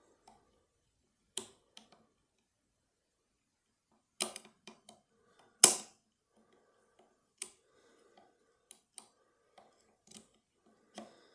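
Lock picks and tension tool clicking and tapping against the metal levers and body of a lever padlock being picked. Irregular clicks with short pauses between them, a quick cluster a little before halfway and the sharpest click just after it.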